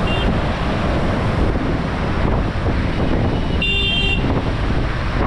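Steady rushing of flood water released through the opened spillway gates of a dam, with wind buffeting the microphone. About four seconds in, a brief high-pitched tone sounds for half a second.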